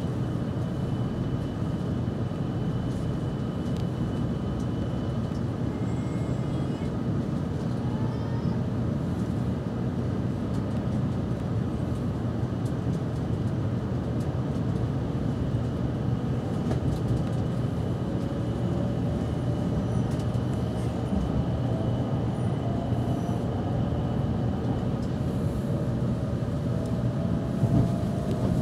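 Cabin sound of a JR West 700-series Shinkansen pulling out of a station: a steady low running rumble. From about halfway through, the IGBT VVVF inverter traction drive adds a faint whine that climbs slowly in pitch as the train gathers speed.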